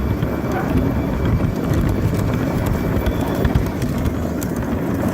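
LGB garden-scale model locomotive running along outdoor track: a steady low rumble with scattered light clicks from the wheels on the rails.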